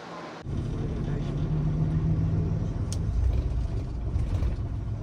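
Low engine rumble of a road vehicle, cutting in suddenly about half a second in, with a steady low hum that drops lower about three seconds in.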